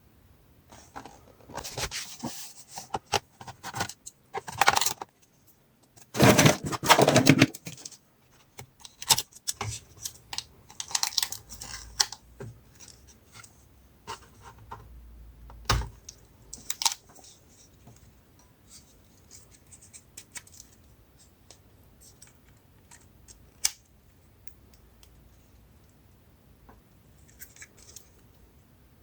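Hands and small tools working on a laptop's plastic case during disassembly: scattered clicks, taps and scrapes. A longer, louder scraping stretch comes about six seconds in. The sounds thin out to occasional clicks in the second half.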